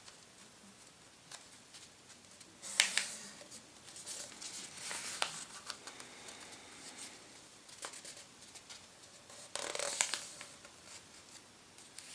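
A sheet of paper being folded and creased by hand: scattered crisp rustles and crinkles, with two louder bursts of paper handling about three seconds in and near ten seconds.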